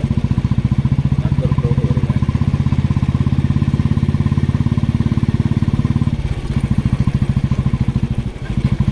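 Motorcycle engine running steadily under way, heard from the rider's seat, with a rapid even firing beat. The engine note drops off briefly twice, about six and about eight seconds in.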